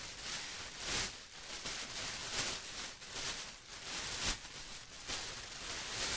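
Plastic being rustled and crinkled: a hissy crinkling that swells and fades in uneven surges about once a second.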